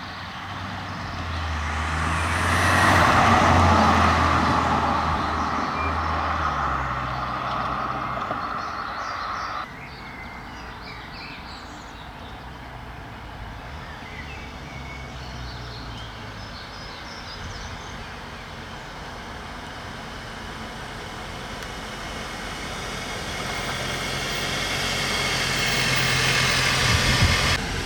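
A car driving past: its engine and tyre noise swells to a peak about three seconds in and then fades. After an abrupt cut about ten seconds in, another car approaches and grows louder toward the end.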